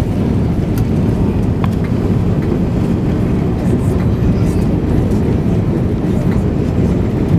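Airbus A380's four Rolls-Royce Trent 900 engines running at takeoff power: a loud, steady low rumble.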